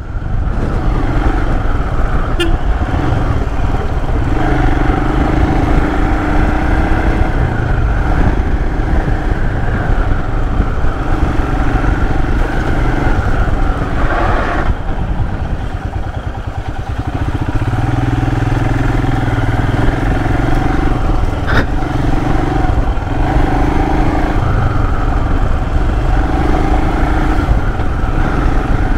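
Royal Enfield Himalayan's 411 cc single-cylinder engine running under way. The rumble eases for a moment about halfway through, then picks back up, with a couple of brief clicks along the way.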